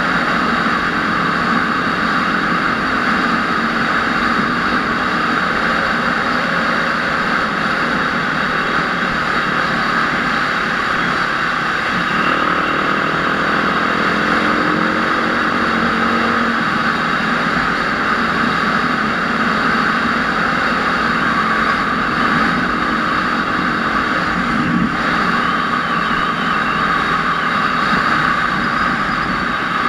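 Enduro motorcycle engine running under way amid a steady rush of noise, its pitch rising and falling about halfway through.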